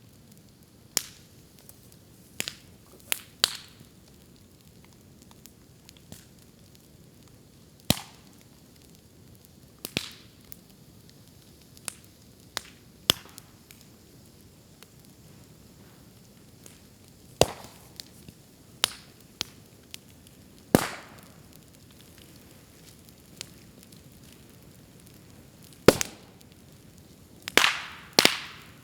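Bamboo burning in a bonfire: irregular sharp cracks and pops as the culms burst, a few louder bangs among them and a quick cluster near the end, over a low crackle of fire. The bursts come from air and moisture sealed inside the bamboo expanding in the heat.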